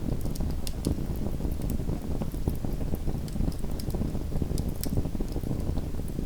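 Small wood fire burning in a fireplace: a steady low rumble of flames with frequent sharp crackles and pops from the burning wood.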